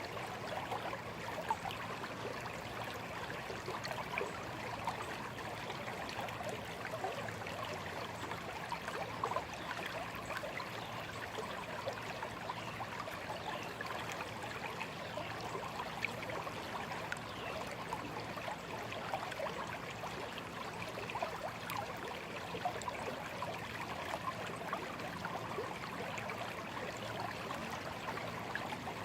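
A small stream running over stones, a steady babble of water with many small splashes and trickles.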